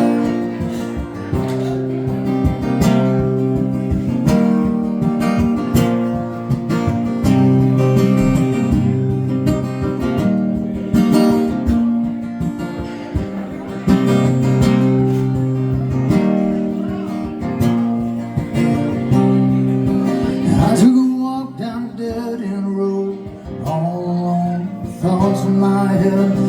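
Live country music: the instrumental intro of a song, led by strummed acoustic guitar. The low notes drop out for a few seconds about two-thirds of the way through, then return.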